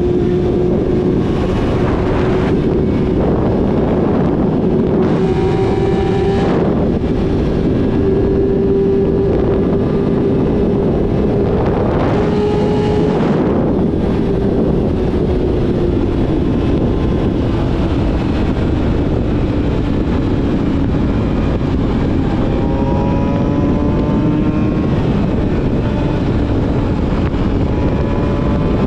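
Yamaha YZF-R6 inline-four with a full-system exhaust, running at steady cruising revs. The pitch eases down about two-thirds of the way through and climbs again near the end. Wind buffets the microphone throughout, with a few short gusts.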